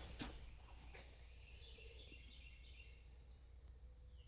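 Near silence with faint bird chirps in the background.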